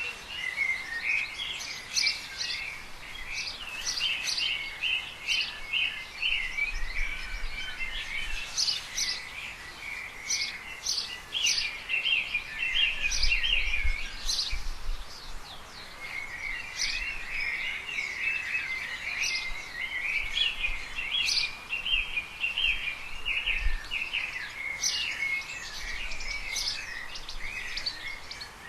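Small songbirds chirping and twittering continuously, many short high calls overlapping, with a brief lull about halfway through.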